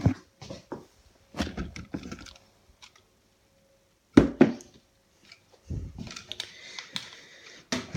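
Scattered handling knocks and clicks of hard plastic, the loudest a thump about four seconds in.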